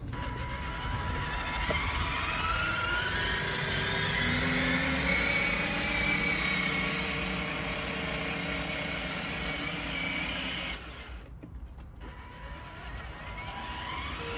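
Electric motor of a children's ride-on toy truck whining as it drives, its pitch gliding upward as it speeds up; the sound drops away for about a second near the end, then picks up again.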